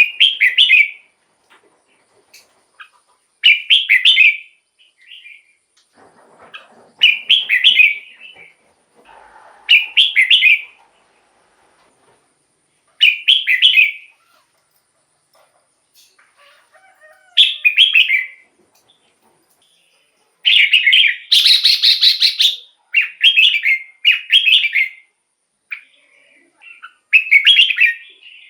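Red-whiskered bulbul singing short, bubbly whistled phrases of about a second each. The phrases come every few seconds at first, then follow one another closely in the later part, where one longer, louder phrase stands out.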